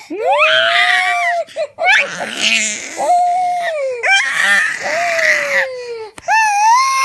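Infant crying and wailing in about six long, high-pitched calls that rise and fall, some turning raspy and strained.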